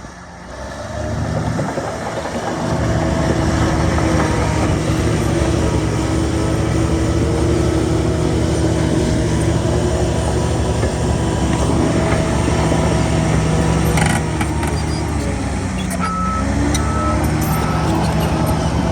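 Heavy diesel engine of earthmoving machinery working hard. It builds up over the first two seconds, dips in pitch and recovers about two-thirds of the way through, and a reversing alarm beeps near the end.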